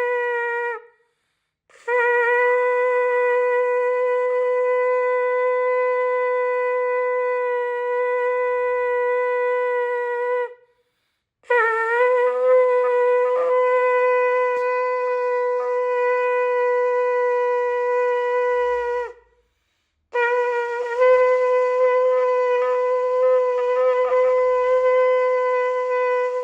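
Shofar sounding long sustained blasts on one steady note: one blast ends about a second in, then three long blasts of around eight seconds each follow with short silent breaks between them, the later ones opening with a slight upward lift in pitch.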